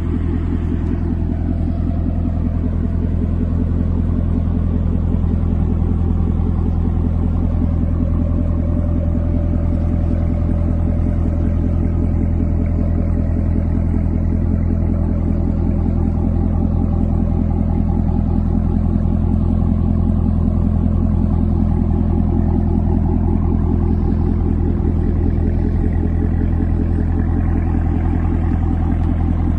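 A car engine idling, a deep steady drone that holds one pitch without revving.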